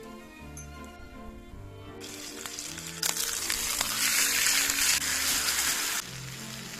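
Chicken breast frying and sizzling loudly, the sizzle swelling about two seconds in and cutting off sharply near the end, over background music.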